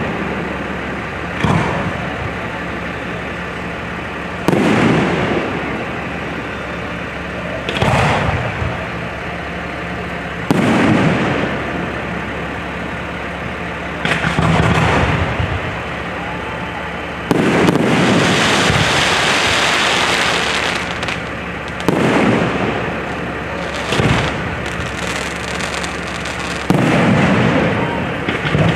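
Aerial fireworks shells bursting, about nine sudden booms spaced a few seconds apart, each trailing off. Partway through comes a few seconds of continuous dense crackling.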